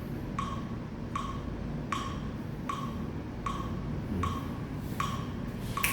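Metronome ticking steadily at a little over one tick a second, setting the tempo for the putting stroke.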